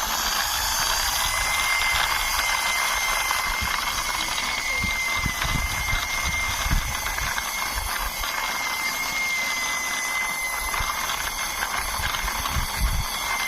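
Plastic toy car pushed along by hand: a steady whirring with a thin, steady high whine, and low bumps as it is handled.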